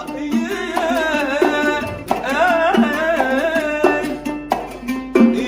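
Arabic music ensemble playing an ornamented instrumental melody over hand-drum percussion.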